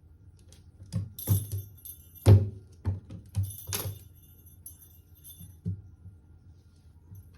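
A one-month-old brown tabby kitten playing fast: a run of irregular knocks and thumps with a bright jingle, loudest a little over two seconds in, then a few fainter knocks.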